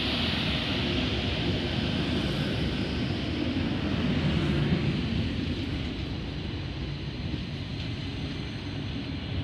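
Stainless-steel double-deck electric suburban train pulling out past the platform at close range: a steady rumble and hiss of wheels and running gear that eases slowly as the cars draw away.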